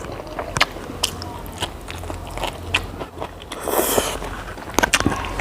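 Close-miked mukbang eating sounds: irregular crisp crunches, clicks and wet chewing as food is bitten and chewed, with a short breathy rush about four seconds in.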